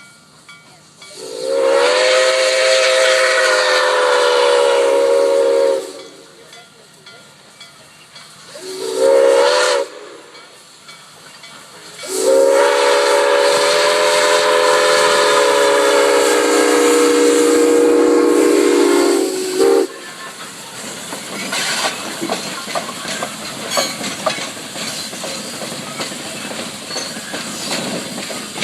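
Nickel Plate Road No. 765, a 1944 Berkshire-type steam locomotive, blowing its chime whistle: a long blast of several notes sounding together, a short one, then another long one with a brief toot at its end. After that comes the rattle of the train rolling past, with clicking wheels.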